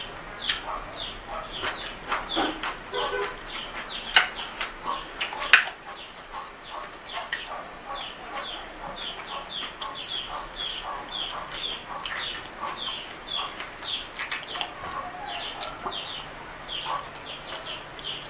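Close-miked chewing and wet lip-smacking while eating fried potatoes and spaghetti: a quick, steady run of small mouth clicks. Two sharper clicks come about four and five and a half seconds in.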